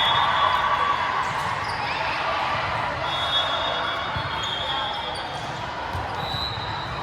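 Gymnasium sound during a volleyball match: steady background chatter from players and spectators, dull thuds of a ball, and short high squeaks, such as sneakers on the court floor, several times.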